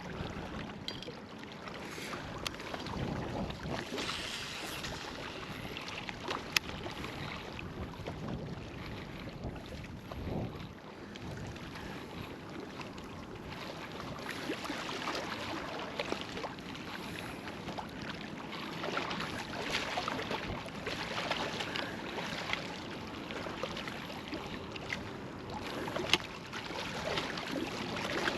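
Wind buffeting the microphone over lapping lake water, with a few sharp clicks.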